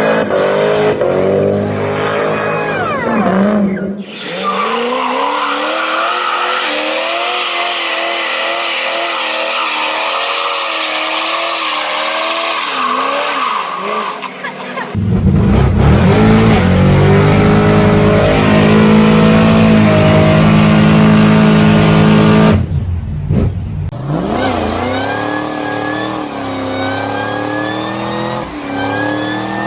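Big American V8 muscle-car engines running and revving, in about four separate clips cut together, each ending abruptly. The pitch rises and falls with the revs.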